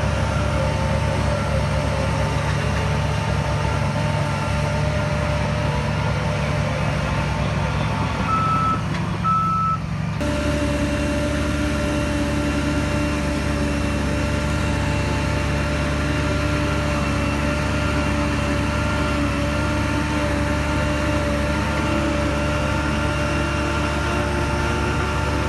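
Heavy diesel earth-moving machinery running steadily, with two short reversing-alarm beeps about eight seconds in; the engine note changes abruptly about ten seconds in.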